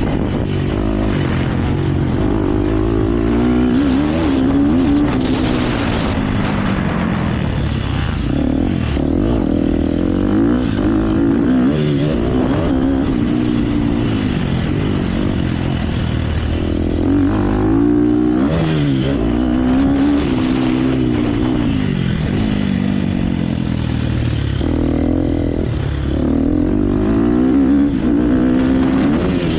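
KTM motocross bike engine revving hard and dropping back again and again as the rider accelerates, shifts and rolls off around the track. The pitch climbs and falls every couple of seconds.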